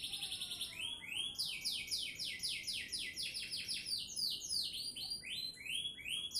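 Domestic canary singing a continuous song of fast trills: runs of rapid repeated sweeping notes, about seven a second, switching from one note type to another every second or so.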